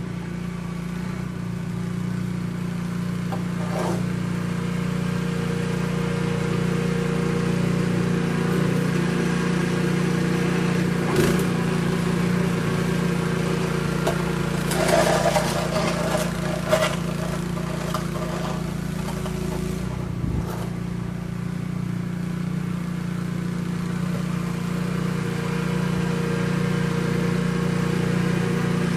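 An engine running steadily at an even speed, with a few brief knocks and clatters near the middle.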